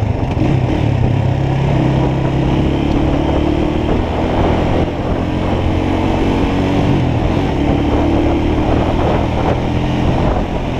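Motorcycle engine running while riding, its pitch shifting up and down in steps a few times, over steady wind noise.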